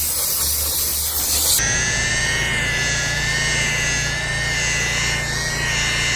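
Steam car-wash machine at work: a loud steam jet hiss for about a second and a half, then a steady machine hum with a high whine that wavers slightly in pitch.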